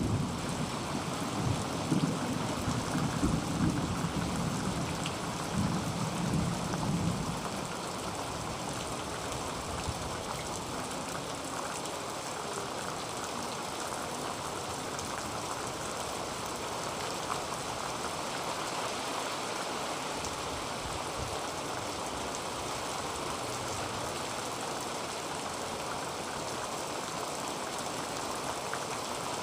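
Heavy rain drumming steadily on a tin roof. A low rumble of thunder fills the first several seconds and fades out about seven seconds in.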